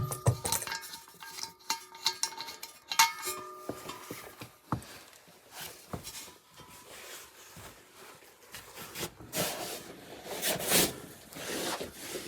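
Metal cookware and utensils clinking and knocking, with a ringing clink about three seconds in, then scraping and rubbing sounds near the end.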